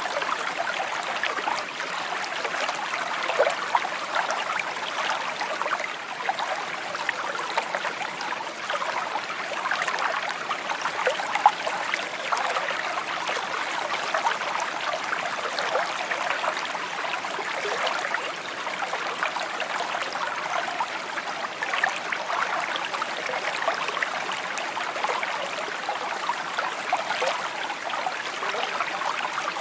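Shallow stream babbling and trickling over stones, a steady burble of many small gurgles and splashes.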